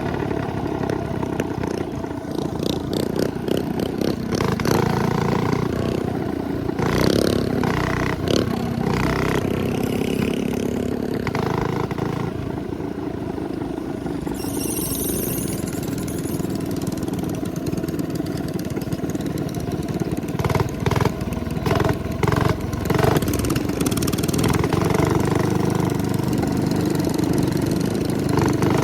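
Small 212cc minibike engines running as the bikes are ridden, with short sharp clatters or knocks several times, around a third of the way in and again past the middle.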